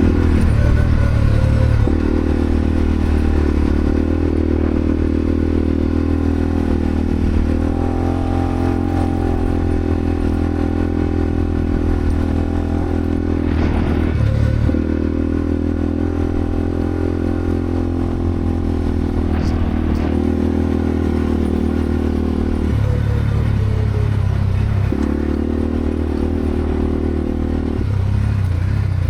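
Quad bike (ATV) engine running steadily as it is ridden off-road, its note shifting with throttle changes a few times, with some clatter from the rough track.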